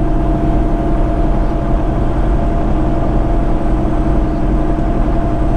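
Peterbilt semi-truck's diesel engine running steadily at cruise, heard inside the cab as an even low drone with road noise.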